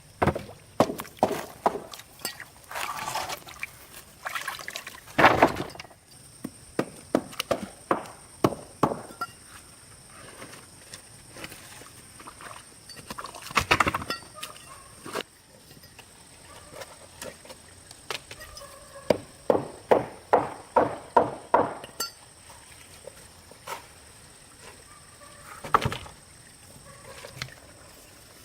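Runs of sharp knocks and taps, several strokes a second in bursts with short pauses between, the loudest cluster a little past the middle.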